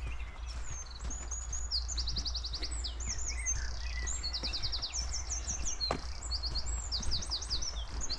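A small songbird singing a varied song of fast, high trills and quick repeated notes, with brief pauses between phrases. Faint footstep ticks and a steady low rumble run underneath.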